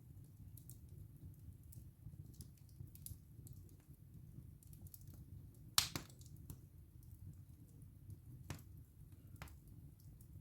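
Wood fire burning in a fireplace: a faint, steady low rumble of the flames with scattered small crackles, and one sharp, loud pop about six seconds in.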